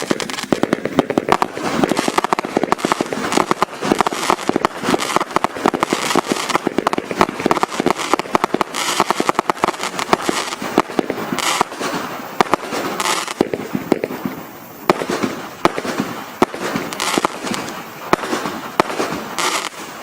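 Absolute Fireworks 'Doomsday' 500-shot barrage cake firing a rapid, dense stream of shots; about fourteen seconds in the shots thin out to scattered, spaced pops near the end of the barrage.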